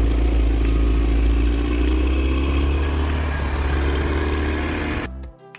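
Motor grader's diesel engine running steadily with a strong low rumble, cutting off suddenly about five seconds in.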